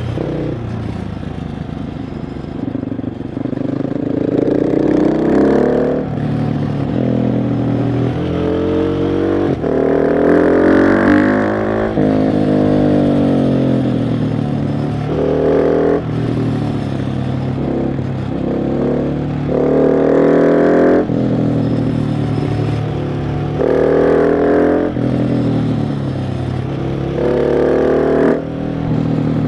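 KTM 690 SMC R's single-cylinder engine under load, its revs climbing and then falling back sharply, about six times in a row: repeated pulls under throttle, each cut by a shift or by backing off the throttle.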